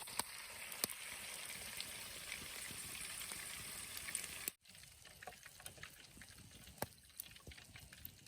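Breaded fish frying in a pan: a steady sizzle with scattered pops. About halfway through it cuts off abruptly, leaving a quieter background with a few light clicks.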